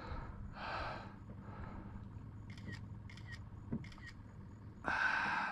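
Phone camera shutter clicking four or five times in quick succession, with soft rustling hiss before the clicks and a louder burst of hiss near the end.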